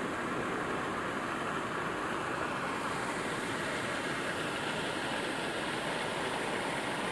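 Steady rainfall mixed with city traffic running on wet streets. A brighter hiss comes up about three seconds in and holds.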